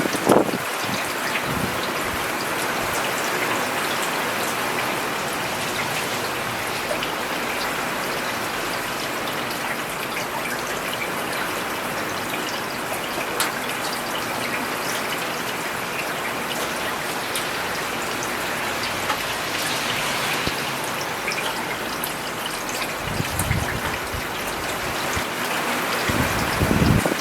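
Steady rain falling on a road, a dense, even patter of drops. A few low rushing swells come through right at the start and again near the end.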